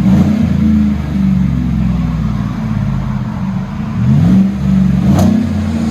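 V8 exhaust through a Magnaflow 14-inch-body muffler, revved: the pitch climbs and holds at the start and again about four seconds in, with a low rumble between. A sharp tick about five seconds in.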